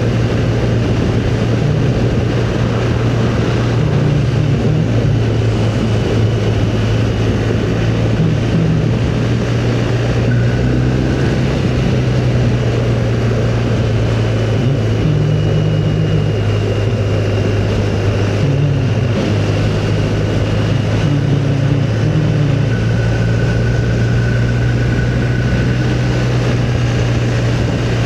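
Motorcycle engine droning steadily while riding along at constant speed, mixed with the rush of wind noise.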